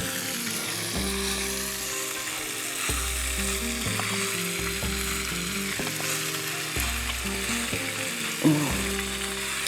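Background music with a slow bass line whose notes change about every one and a half seconds, over the steady crackling sizzle of a Cornish game hen frying in a cast iron skillet. A brief louder sound with a rising pitch comes near the end.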